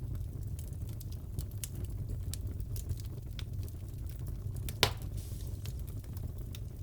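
Wood fire crackling in a fireplace: a steady low rumble of flame with scattered snaps and pops, one sharper pop standing out just before 5 seconds in.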